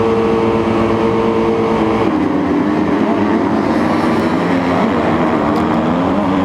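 Motocross bike engine running at steady revs, then revving up and down from about two seconds in.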